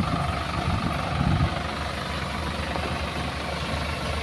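Diesel engine idling steadily, a little louder in the first second and a half.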